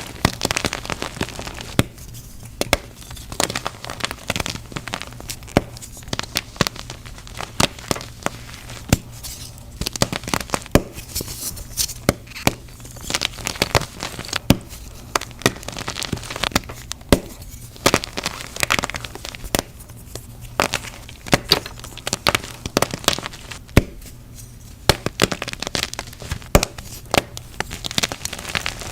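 Blocks of gym chalk being crushed: dense, irregular crunching and crackling with sharp snaps, broken by short quieter pauses.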